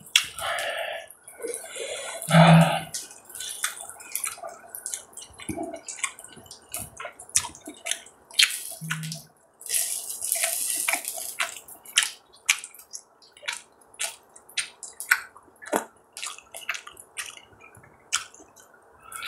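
Close-miked chewing of grilled beef rib meat: a dense run of wet, sticky mouth clicks and smacks with short gaps between them, and a few fuller bursts near the start and about nine seconds in.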